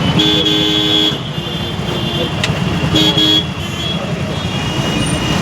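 City street traffic heard from a moving motorbike: a vehicle horn honks twice, a long honk of about a second and then a shorter one, over steady engine and road noise.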